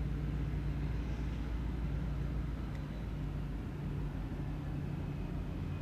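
A low, steady engine drone with an even hum, running without change.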